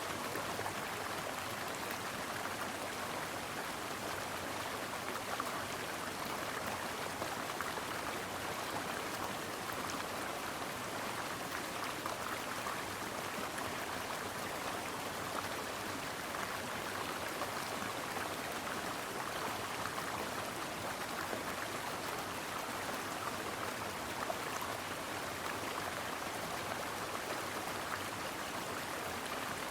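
Brook water flowing steadily, an even rushing babble with no changes.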